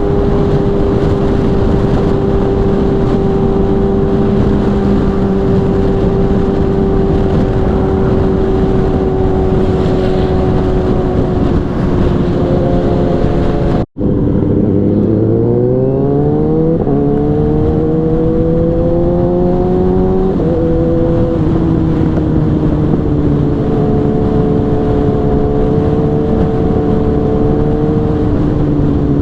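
Sport motorcycle's inline-four engine at high revs on the highway over wind rush: steady at first, then after a brief cut-out about halfway it pulls hard through a gear, the pitch rising, drops with an upshift and settles to a steady cruise.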